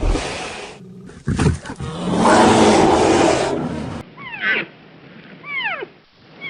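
A loud, rough, roar-like animal call, then, after an abrupt change about four seconds in, three groups of high whistled calls that sweep steeply down in pitch.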